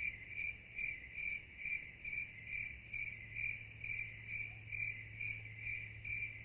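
Cricket-like chirping, even and regular at about two to three chirps a second, over a faint steady low hum.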